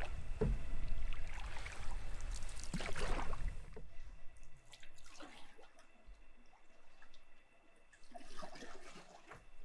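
Canoe paddle strokes in lake water, with water dripping and trickling off the blade; louder for the first few seconds, then fainter, scattered splashes.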